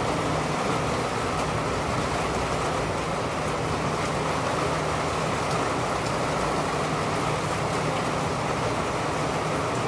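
Steady rain falling, an even hiss with faint scattered drop ticks, with a low hum underneath.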